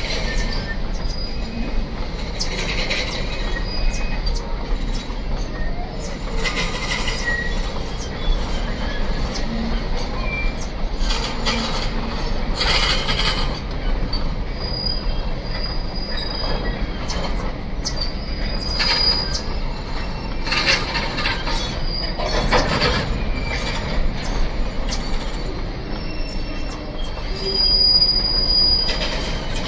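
Container flat wagons of a long freight train rolling past on steel rails: a steady rumble of wheels on track. Brief high-pitched wheel squeals come and go, and irregular clanks sound as the bogies pass.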